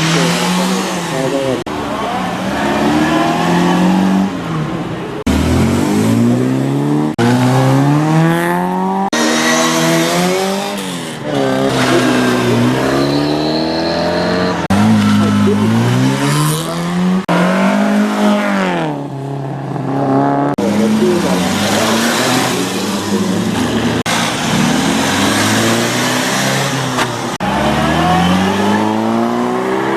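Classic car engines revving hard and easing off again and again, the pitch climbing and dropping with each burst of throttle and gear change. Several cars are heard in turn, with abrupt changes from one engine to the next.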